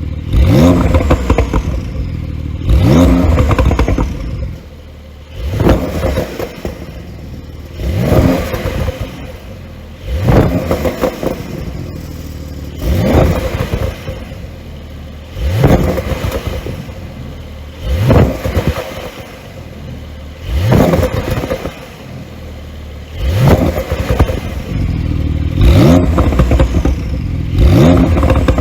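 Porsche 992 Carrera S twin-turbo flat-six revved repeatedly, about every two and a half seconds, each rev rising sharply and dropping back with crackles and pops on the overrun. The exhaust flap is held fully open and the pops come from an ECU tune.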